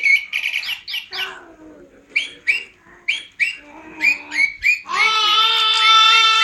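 A bird chirping over and over in short, quick chirps, fastest in the first second and then about two a second. About five seconds in, a cat joins with one long, drawn-out meow.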